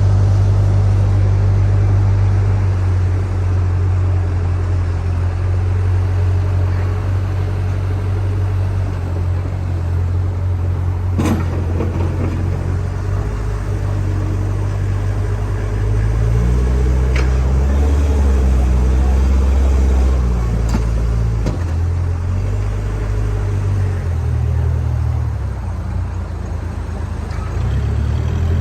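A backhoe loader's diesel engine runs steadily, with its revs rising and falling as it works about two-thirds of the way through. A few sharp knocks or clanks sound along the way.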